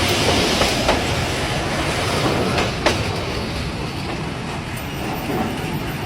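Train running on the rails, a steady rumble of wheels with sharp clacks about one and three seconds in, easing off slightly toward the end.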